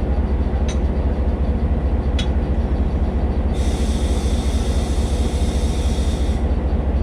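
Udaya Devi express train running along the track: a steady low rumble with a couple of sharp clicks, and a high-pitched squeal lasting about three seconds in the middle.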